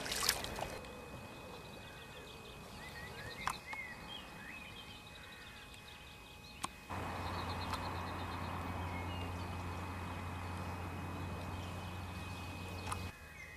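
Faint outdoor ambience with small birds giving short chirping calls in the first half. About seven seconds in, a steady low hum with a hiss begins and cuts off shortly before the end.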